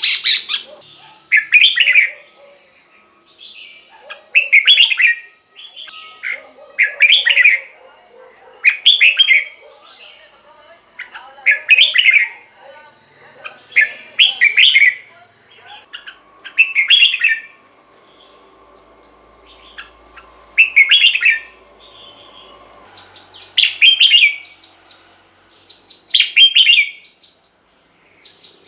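Red-whiskered bulbul singing short, loud song phrases, about one every two to three seconds, with softer chattering notes between them.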